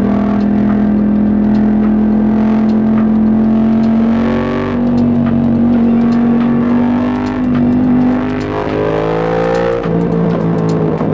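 Yamaha MT-07's 689 cc parallel-twin engine running under load at a steady cruise, its pitch edging up about halfway through, then falling away in the last few seconds as the throttle is eased off. Music plays under it.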